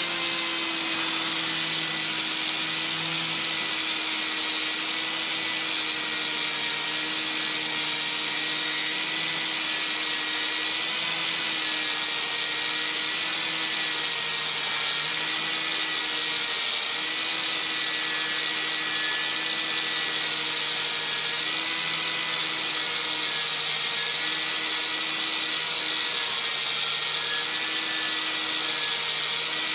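Handheld power tool running steadily while it cleans rust off the inside of a spoked motorcycle rim. A motor hum wavers slightly in pitch under load, over a constant scraping hiss.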